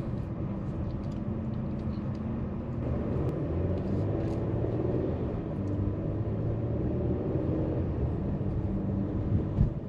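Car driving steadily, with engine and tyre noise heard from inside the cabin and the engine's low hum shifting slightly in pitch. A brief knock comes near the end.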